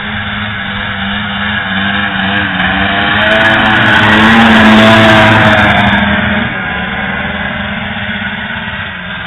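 Ski-Doo Blizzard 6500 Plus snowmobile's two-stroke engine running under way, growing louder to a peak about five seconds in, then easing back down.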